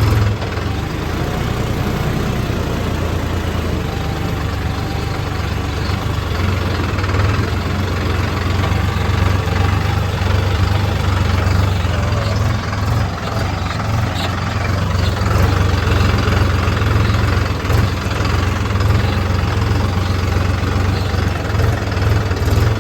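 Heavy diesel engine idling steadily with a deep low hum.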